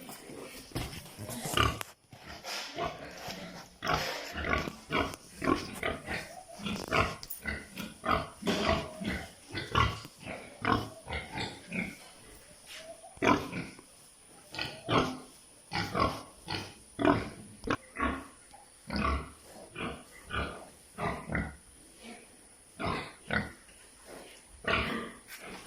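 Pigs grunting and squealing in a pen: many short calls from several animals, one after another in an irregular series.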